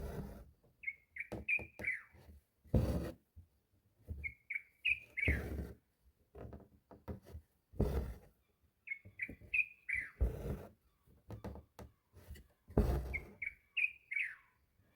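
A bird chirping a short phrase of four or five quick, rising chirps, repeated about every four seconds. Under it come louder rasping strokes every two to three seconds: thread being pulled through embroidery fabric.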